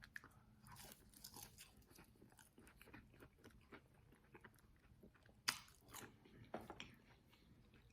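Close-up chewing and crunching on crispy fried chicken wings cooked extra well done, a run of small crackling bites with a sharp loud crunch about five and a half seconds in.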